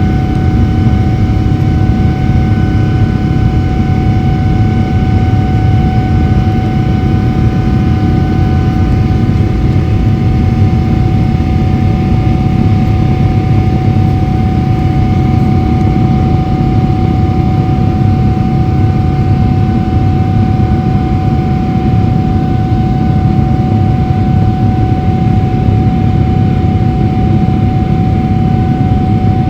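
Boeing 777-300ER's GE90-115B turbofan engines heard from inside the cabin during the climb after takeoff: a loud, steady rumble with a steady whine-like tone over it.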